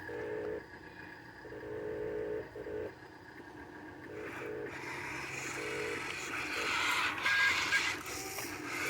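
Dump truck on the move: its engine runs steadily, and a broad hiss of road and wind noise builds from about four seconds in.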